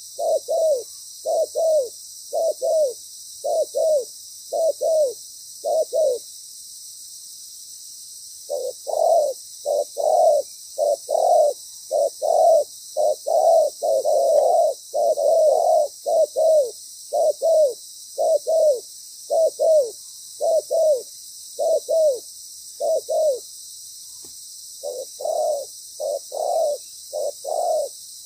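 Spotted dove cooing: a long run of short coos at about two a second, breaking off for a couple of seconds about six seconds in and again briefly near the end.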